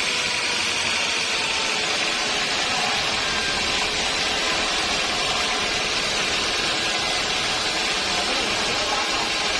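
Sawmill machinery running steadily, a constant mechanical noise with no breaks.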